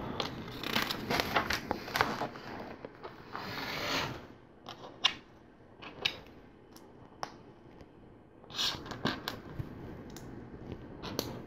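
LEGO plastic pieces being handled and pressed together: scattered small clicks and rattles, with a short rustle about three seconds in.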